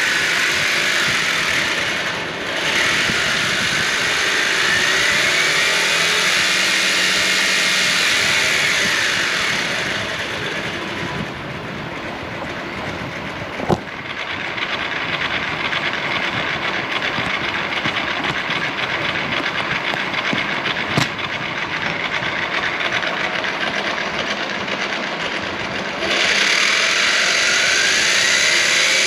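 Brushless motor running through a 3D-printed PLA gearbox: a steady gear whine and rattle, its pitch rising and falling several times as the speed changes. The sound drops quieter and duller for a stretch in the middle, where two sharp clicks stand out.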